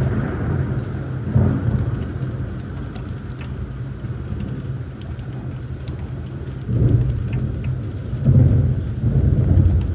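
Thunder rumbling in a thundershower, swelling about a second in and again in repeated surges in the last few seconds, over a light patter of raindrops.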